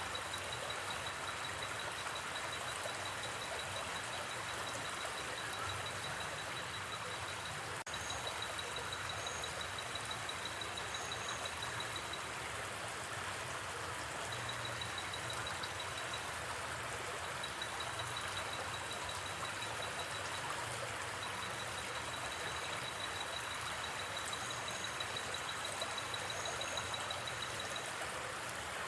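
River water flowing steadily, with a night-time call from the forest over it: a high, rapidly pulsing chirp that breaks off and resumes several times.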